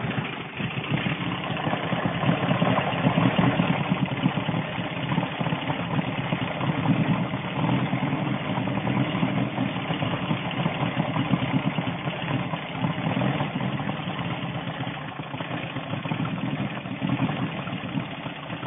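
1970 Volkswagen Beetle's air-cooled flat-four engine idling, its level wavering a little. The owner cannot say why it runs like this, since it is getting fuel and has a new fuel pump.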